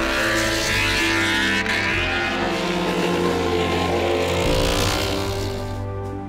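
Inline-four MotoGP prototype motorcycle engine at high revs, its pitch falling and then climbing again about four seconds in, under steady background music; it fades near the end.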